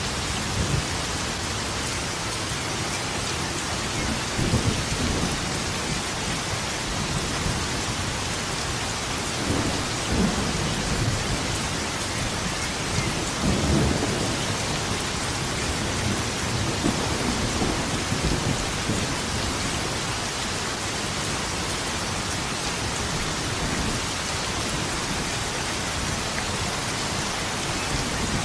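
Steady heavy rain, with rolls of thunder rumbling low under it several times, the strongest about a third and halfway through.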